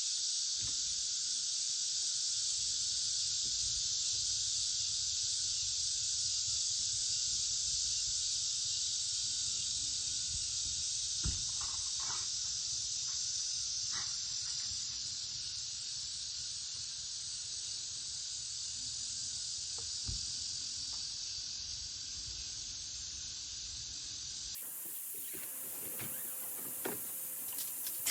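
A dense, steady, high-pitched chorus of night insects such as crickets. It cuts off abruptly near the end, giving way to a few scattered clicks and taps.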